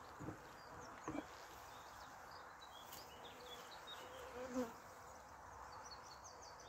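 Honeybees buzzing steadily around the hives, with a brief louder buzz about four and a half seconds in and a couple of soft knocks about a second in.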